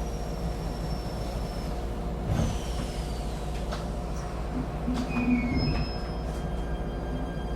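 Cabin noise of a Shinetsu Line local electric train running: a steady low rumble with a motor hum, high whines that fall in pitch, and two brief knocks from the running gear.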